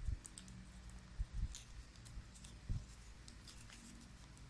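A sheet of paper rustling and creasing as it is folded by hand, with a few soft knocks.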